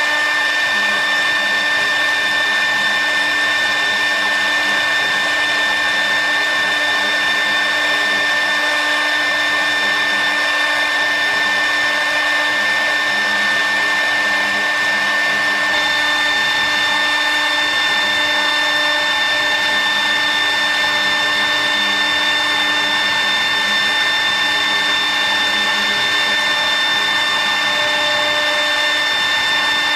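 A motorised machine running steadily: an even, loud whir with a steady high whine. A second, higher whine joins about sixteen seconds in.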